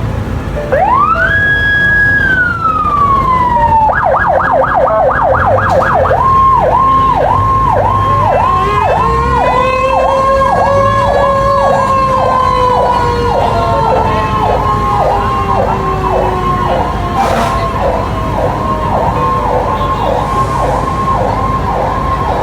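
Electronic fire truck sirens: one rises to a held wail and falls away, switches to a fast yelp, then cycles up and down about twice a second. A second siren sweeps slowly up and down beneath it through the middle.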